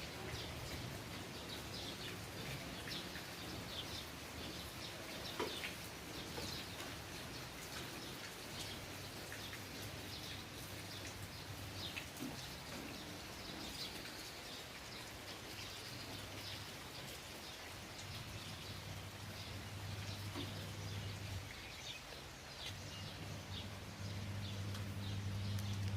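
Light drizzle with rainwater falling and dripping, making irregular small knocks and taps, the 'thak thak' that sounds as if someone were knocking on purpose. Short high ticks are scattered all through it.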